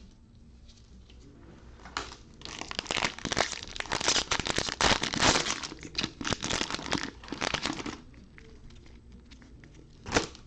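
Plastic wrapper of a trading-card fat pack being torn open and crinkled, a dense crackle lasting about six seconds that starts about two seconds in. A single sharp tap near the end.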